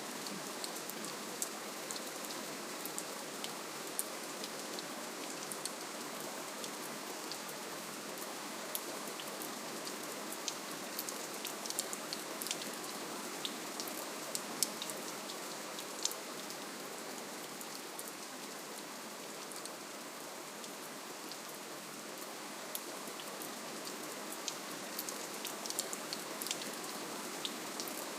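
Steady, gentle rainfall, a continuous hiss with many small, distinct drop ticks scattered throughout.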